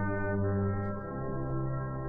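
Brass band backing music playing slow, sustained chords, moving to a new chord about a second in.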